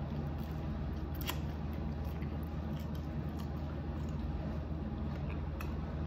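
Close-up eating sounds of someone biting and chewing a crisp-fried birria taco, with a few sharp crunches and clicks, over a steady low background hum.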